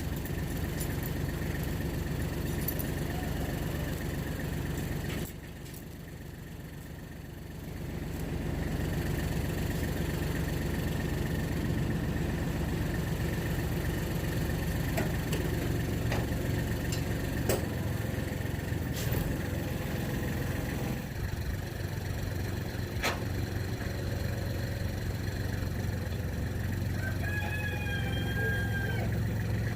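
An engine running steadily at an even speed, dropping quieter for a couple of seconds early on before picking back up, with a few sharp clicks over it.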